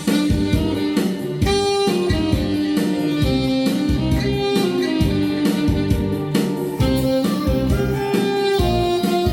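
Saxophone playing a melody of held notes over an accompaniment with guitar, bass and a steady beat.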